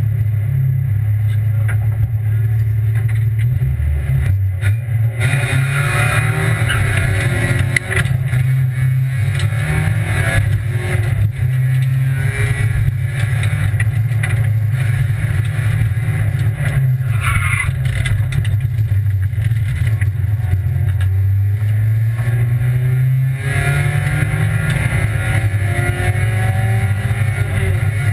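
Rally car engine heard from inside the cabin: it holds a steady, low note for about five seconds, then the car launches and the engine runs hard at high revs along the stage, with brief dips at gear changes.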